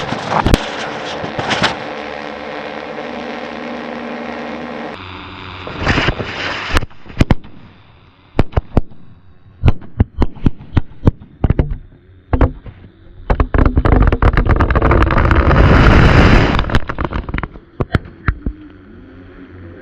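Many firecrackers going off inside a large plastic bottle: irregular sharp bangs, some in quick clusters, with a loud dense stretch of rapid crackling and rushing noise about two-thirds of the way through.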